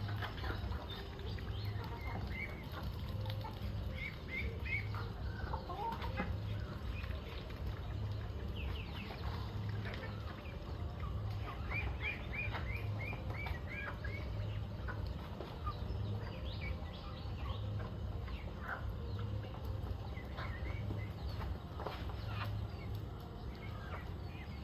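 Chickens clucking, with scattered short high calls and quick runs of them, over a steady low hum.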